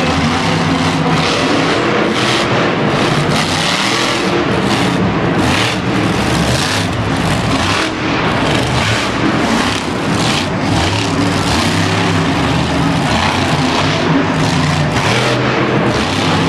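Monster truck engine revving hard and easing off again and again during a run, its pitch rising and falling.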